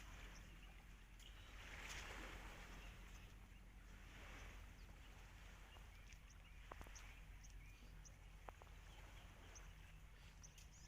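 Near silence: faint outdoor ambience with a steady low hum and a couple of faint clicks.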